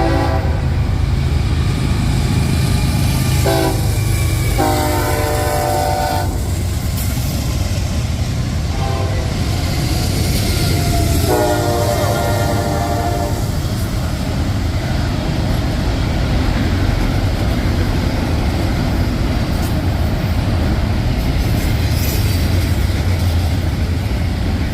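CSX intermodal freight train passing at speed on the main line, a steady heavy rumble with wheel clatter. Over it a locomotive's multi-chime air horn sounds: a short blast, a longer blast right after it, and another long blast several seconds later.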